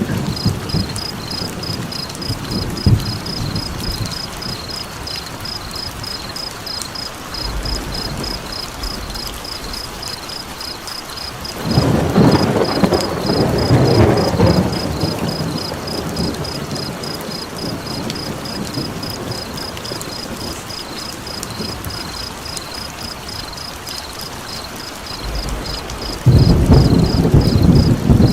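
Steady rain with two rolls of thunder, one about twelve seconds in and a louder one near the end. Over it runs a steady high-pitched chirping, about two chirps a second, which the track presents as frogs.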